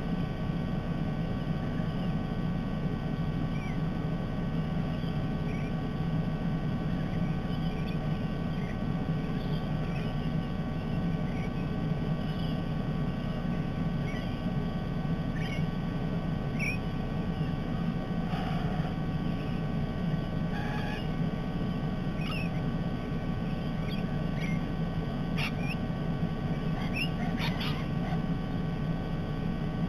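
Parrots giving short chirps and squawks at irregular intervals, several louder, harsher calls in the second half, over a steady low rumble.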